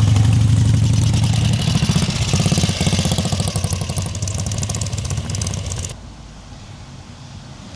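A vehicle engine running loud with a deep steady note and fine, even exhaust pulses, fading over several seconds. About six seconds in the sound cuts off suddenly to a much quieter background.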